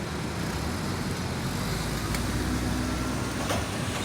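Steady road traffic noise: car engines and tyres as vehicles move past a railroad crossing that has just cleared.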